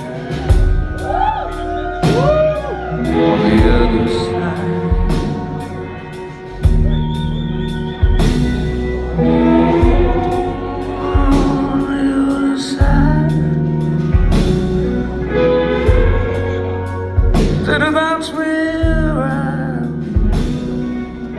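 Live rock band playing a slow song: drum hits every second or so under sustained bass and chords, with a singer's voice sliding up and down in pitch.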